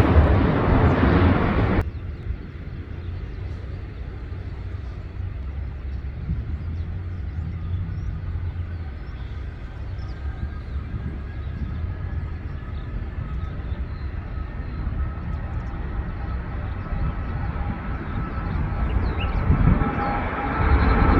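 Jet airliner engines: a loud rumble that stops abruptly about two seconds in, leaving a distant low rumble. Faint jet engine whines then build, and the engine noise is loud again near the end.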